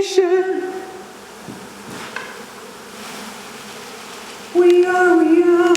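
Honeybees buzzing close by: a loud buzz that fades within the first second, a quieter hum through the middle, then a second loud, steady buzz near the end.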